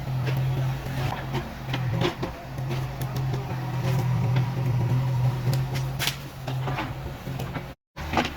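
A heavy machine's diesel engine running at a steady pitch, with scattered sharp knocks and clatters. Near the end the sound drops out completely for a moment.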